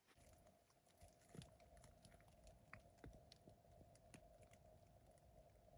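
Near silence: a faint steady hum with scattered faint ticks and clicks.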